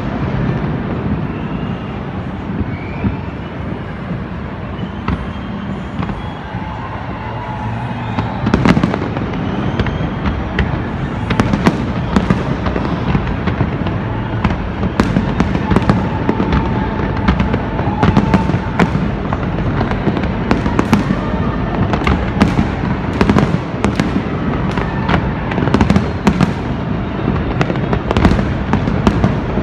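Fireworks display: a continuous run of bangs and crackling over a steady rumble. The bursts come thicker and louder after about eight seconds.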